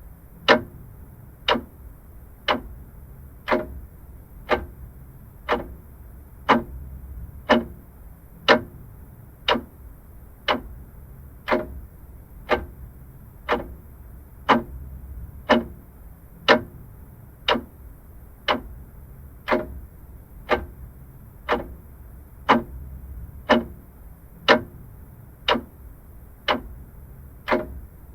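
Vintage mechanical clock ticking steadily, one sharp tick about every second.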